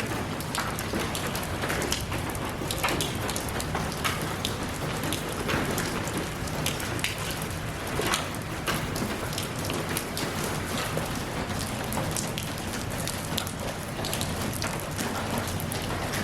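Steady rain falling, with many individual drops striking close by as short, sharp ticks over an even hiss.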